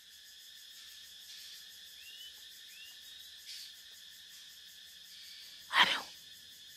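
Steady evening chorus of crickets or other insects, a high even hum, with two small rising chirps about two and three seconds in. Near the end comes one short, loud, sudden burst.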